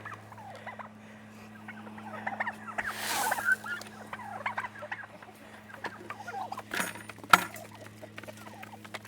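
A flock of chickens clucking and calling, many short calls overlapping, over a steady low hum. A rustling rush comes around three seconds in, and two sharp knocks about seven seconds in.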